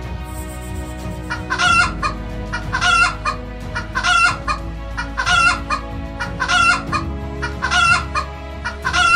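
Domestic hen calling repeatedly: about seven short, evenly spaced clucks, roughly one a second, starting about a second and a half in.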